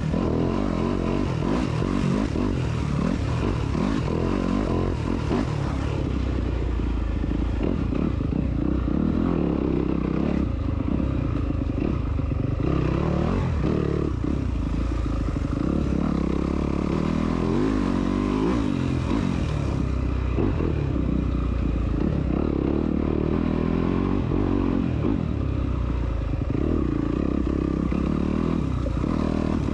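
Off-road motorcycle engine running continuously, its pitch rising and falling as the throttle opens and closes.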